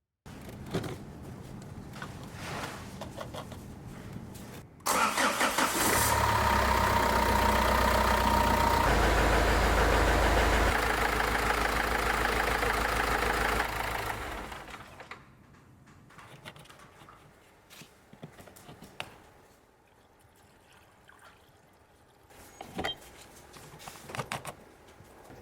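Renault Master 2's 2.2 diesel engine started with a short crank and then idling steadily, its low hum dying away about ten seconds later; the engine is run once the new radiator and coolant are in. Light clicks and handling noises come before and after.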